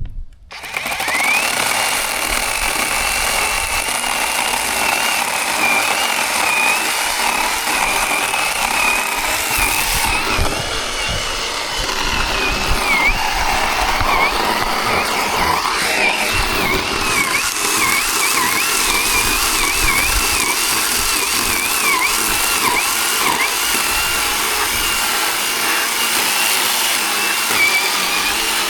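Zhipu 48V cordless battery chainsaw running and cutting wood. Its high motor whine starts just after the beginning and dips in pitch again and again as the chain takes load.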